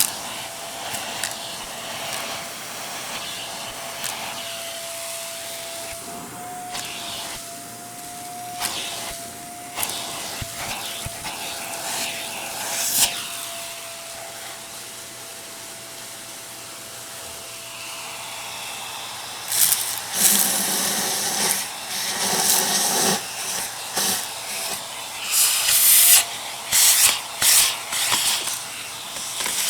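Vacuum cleaner running with a steady motor whine over hiss. About two-thirds in come loud, irregular crackles and rattles of hard debris being sucked up.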